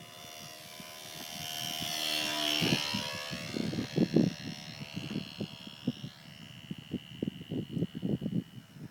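Electric motor and propeller whine of an RC Super Cub airplane flying past, swelling to its loudest about two and a half seconds in, then dropping in pitch as it moves away and settling into a steady thin whine. Irregular low thumps on the microphone through the second half.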